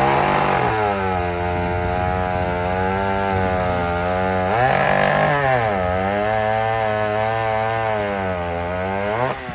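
Vintage chainsaw engine running hard, its pitch sagging and climbing as the revs change: dipping just after the start, rising about five seconds in, then rising again near the end.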